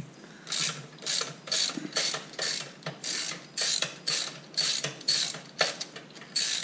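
Hand ratchet wrench clicking in short repeated back-strokes, about three a second, starting about half a second in, as the exhaust bolts are undone.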